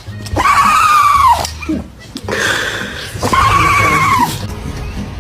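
A dog giving two long, high whines, each lasting about a second, with a slight waver in pitch and a fall at the end.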